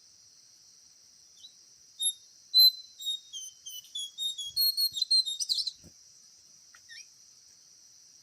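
A bird singing a quick run of short, high chirping notes for about four seconds, over a steady high-pitched insect drone.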